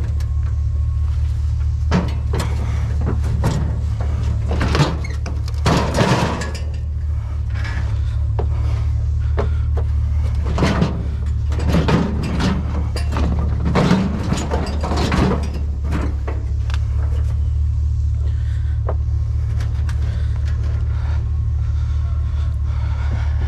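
Steady low rumble of a truck, with a run of knocks and rattles from about two to sixteen seconds in.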